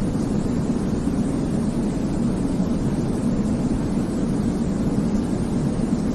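Steady, deep white-noise sleep sound: an even, unchanging hiss weighted toward the low end, with little treble.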